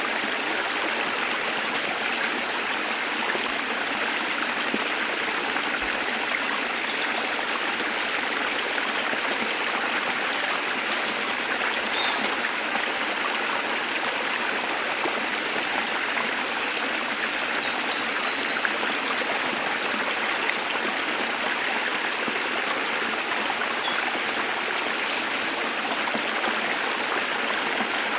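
Waterfall's steady rush of falling water, with a few faint, short high bird chirps over it now and then.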